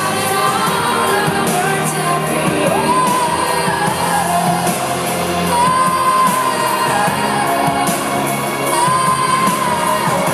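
Live pop concert heard from the audience: a female singer holds long, wavering high notes over the band's accompaniment, with crowd shouts mixed in.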